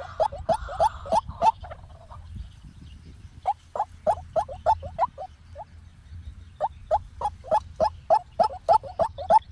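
White-breasted waterhen calling: a series of short rising notes, about three a second, in three bouts separated by pauses of a second or two.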